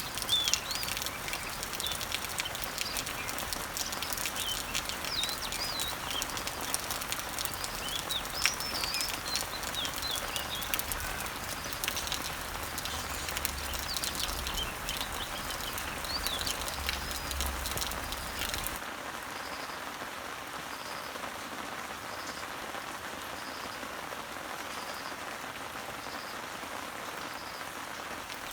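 Steady rain falling on leaves and trees, with small birds chirping high above it. About two-thirds of the way through the sound changes abruptly: the low rumble drops away, the chirping stops, and a faint high note repeats a little more than once a second over the rain.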